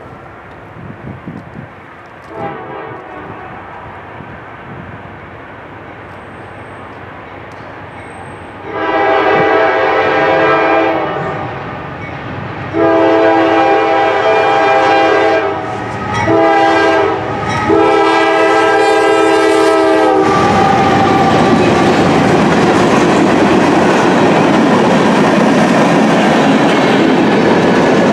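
A Norfolk Southern GE AC44C6M diesel locomotive sounds its horn in the grade-crossing pattern: two long blasts, a short one and a final long one, loudening as it approaches. It then passes close by with its train of steel-coil cars, giving steady wheel-on-rail noise.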